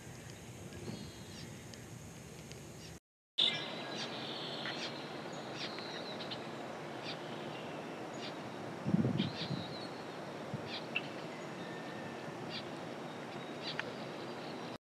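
Birds chirping and whistling in short, scattered calls over a steady outdoor hiss, with one low thump about nine seconds in.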